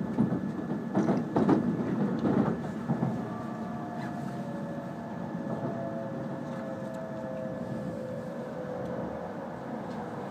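Inside an E5-series Shinkansen slowing into a station: steady running rumble, with a louder stretch of clattering knocks in the first three seconds, then faint whines slowly falling in pitch as the train brakes.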